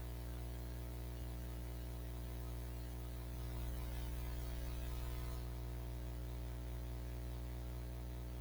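Steady electrical mains hum with a faint hiss, a little louder for a couple of seconds in the middle.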